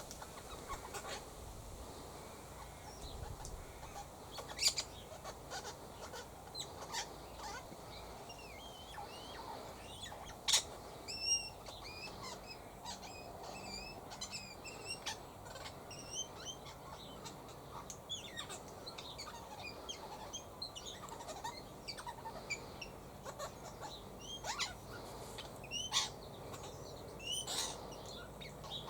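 Birds chirping: many short high twittering notes through most of the stretch, with a few louder sharp calls standing out.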